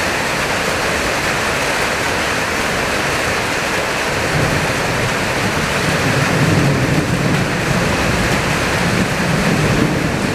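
Heavy summer-storm rain and strong wind as a steady loud hiss, with a low rumble swelling in from about four seconds in.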